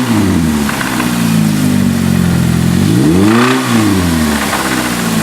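Chevrolet Cobalt's four-cylinder engine revved in place: dropping back from one rev, then revved again about three seconds in and settling back to idle. The noise it makes when revved is, the owner suspects, the timing chain hitting a bracket.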